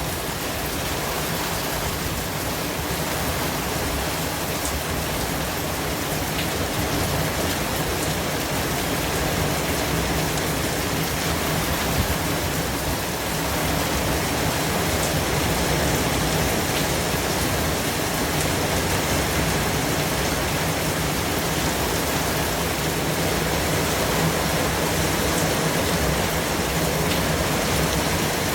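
Steady, even white-noise hiss with a rain-like rush, and a few faint ticks scattered through it.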